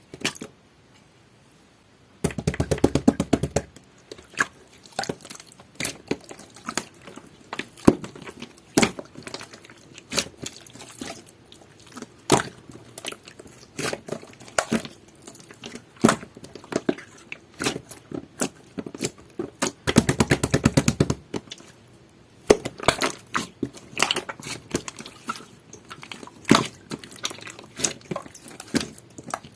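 Clear, jelly-textured slime being squished and pressed by hand, making irregular wet pops and clicks. Twice the clicking turns into a quick dense crackle lasting about a second: near the start and again about two-thirds of the way through.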